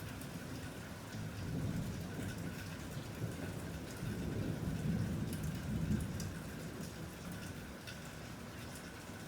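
Steady rain falling, with single drops ticking close by, under a low rolling rumble of thunder that swells about halfway through and then fades.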